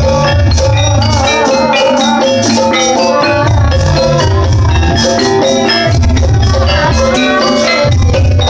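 Javanese gamelan music for a jaranan dance: tuned bronze metallophones play quick runs of notes over repeated low drum strokes, loud and unbroken.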